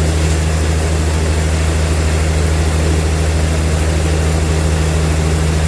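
Sawmill machinery running steadily, a loud constant low hum with no change in pitch.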